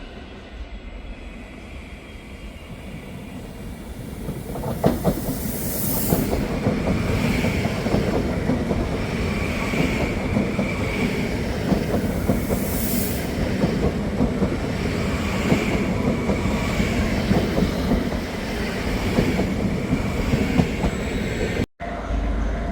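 A train passing on the rails: the rumble grows louder about four seconds in, with clicks of wheels over rail joints and a faint high wheel squeal, then cuts off suddenly near the end.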